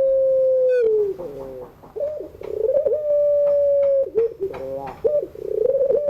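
Puter pelung dove, a long-voiced domestic Barbary dove, giving its drawn-out coo. Each call is a long, steady held note that drops at the end into a few wavering notes, and the calls repeat about every three seconds.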